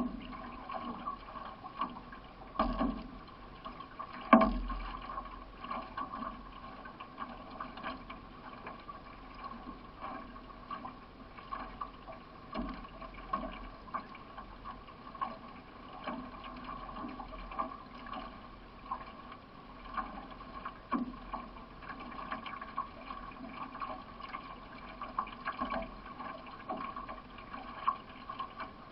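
Solo racing canoe under way: the paddle stroking and splashing in the water again and again, with water rushing along the hull. Two louder knocks come about 3 and 4.5 seconds in.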